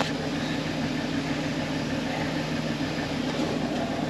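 Tractor engine running steadily at idle, with an even low pulse and no change in speed.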